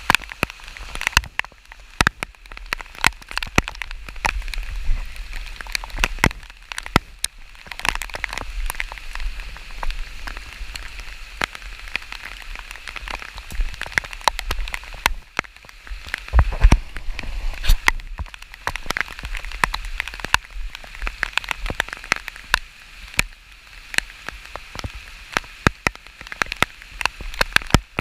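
Steady rain falling, with many sharp, irregular drops striking close to the microphone. Under it runs a low rumble of wind on the microphone.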